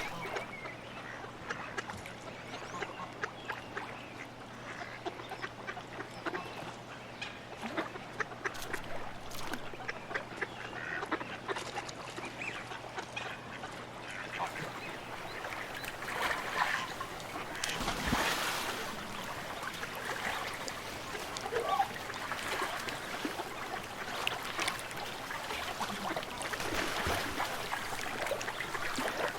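A flock of waterfowl calling, geese and ducks, with many short honks and quacks overlapping.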